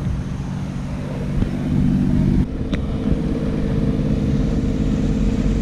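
Speedboat engine running steadily, its drone mixed with wind noise on the microphone; the sound changes abruptly about two and a half seconds in.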